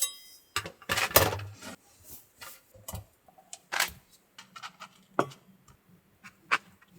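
Irregular knocks, clicks and rustles of things being handled and set down, opening with a sharp metallic clink that rings briefly.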